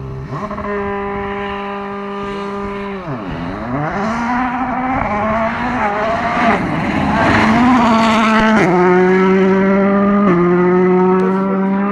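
Volkswagen Polo R WRC rally car's turbocharged engine at high revs. Its pitch holds steady, drops sharply about three seconds in as the driver comes off the throttle, then climbs back. It grows louder toward a peak in the second half, with a few short steps in pitch near the end.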